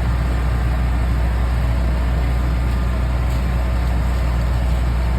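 Steady, low engine-like hum, unchanging in pitch and level.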